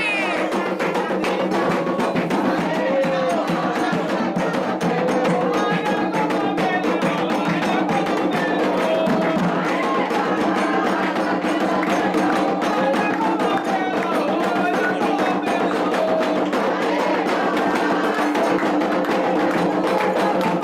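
Candomblé ceremonial music: steady, fast percussion with sharp wood-block-like strikes under a group of voices singing together.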